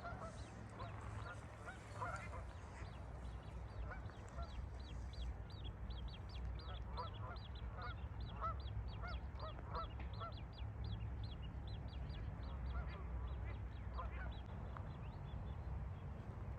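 Birds calling: many short calls in quick succession, some higher and some lower, over a steady low rumble.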